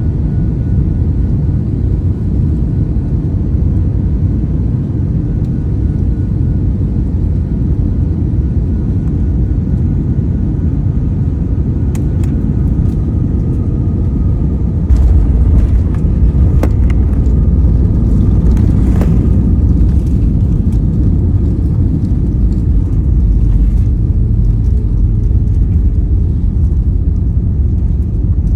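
Airliner landing: a steady low rumble that jumps in loudness about halfway through, with several sharp knocks and clunks around that point, as the plane touches down and rolls out on the runway.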